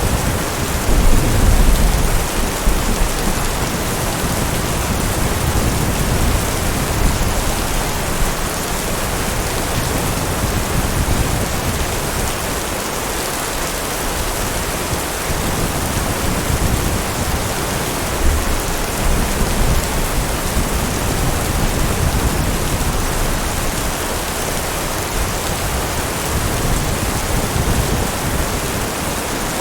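Heavy rain falling steadily in an even hiss, with low rolls of thunder swelling and fading several times; the strongest comes about a second in.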